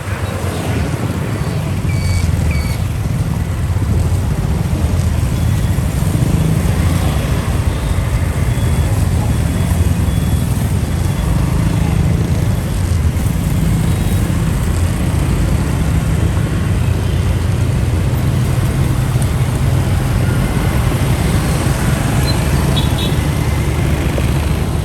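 Motorcycle engine running steadily while riding, a continuous low drone with road noise.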